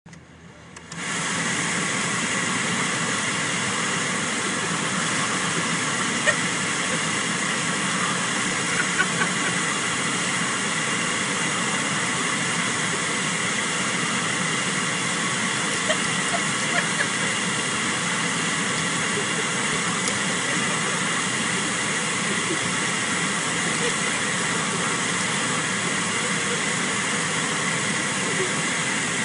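Car air-conditioning blower running at a steady rush of air, with the car's engine idling underneath. It starts about a second in, and a few faint clicks sound over it.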